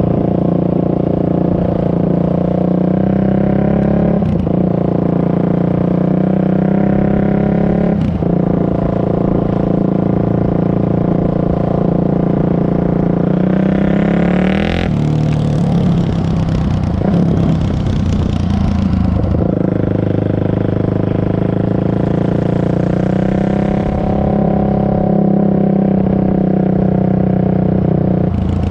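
Honda CRF450R's single-cylinder four-stroke engine running through an FMF full exhaust with no spark arrestor, loud and mostly steady in pitch. About halfway it revs up in a rising sweep that breaks off suddenly, then settles back into steady running.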